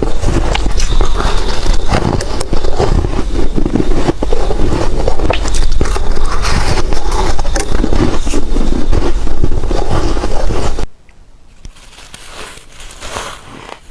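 Close-miked biting and crunching of soft, frosty ice chunks: loud, dense crackling crunches with many sharp cracks. About eleven seconds in the sound cuts abruptly to quieter, scattered crunching.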